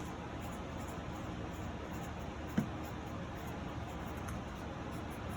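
Steady background hiss of a small room, with one soft knock about two and a half seconds in.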